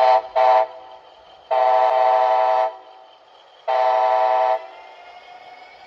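Sound-decoder horn of an HO scale Bachmann Siemens Charger model locomotive: two short toots, then two longer blasts of about a second each, all on the same chord. A faint steady engine sound from the decoder continues underneath.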